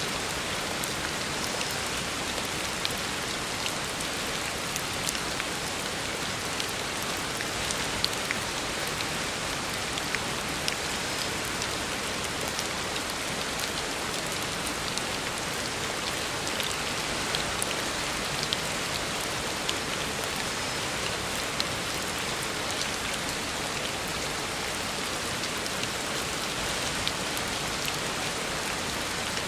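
Heavy rain falling steadily on a road, a dense even hiss with scattered sharp drop splats.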